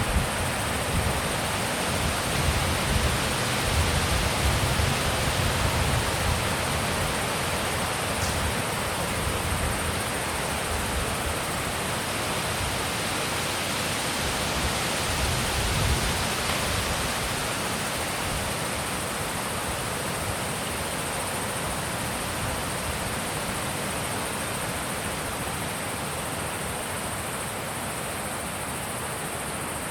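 Wind blowing steadily, with low gusts buffeting the microphone in the first few seconds and again about halfway through, then easing.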